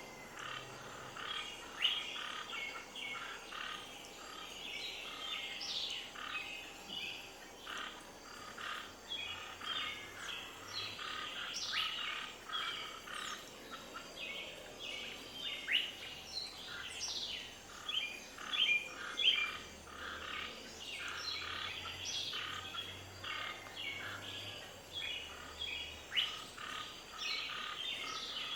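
Many birds chirping together: a dense chorus of short, overlapping calls with quick rising and falling whistles, over a faint steady background hiss.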